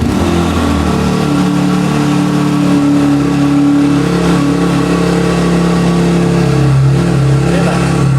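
Cross X CX 250R dirt bike's 250 cc fuel-injected engine running through its exhaust. The engine note changes about a second in, then holds steady.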